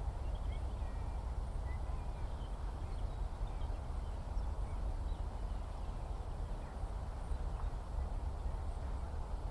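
Outdoor countryside ambience: a steady low rumble with faint, scattered bird chirps high above it, mostly in the first half.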